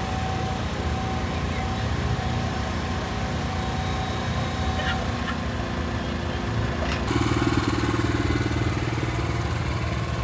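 Jeep engine running steadily, growing louder about seven seconds in.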